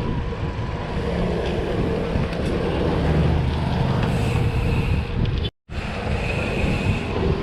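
Steady road noise and wind rush from riding along a busy road, with the rumble of vehicles in traffic. The sound cuts out completely for a split second about five and a half seconds in.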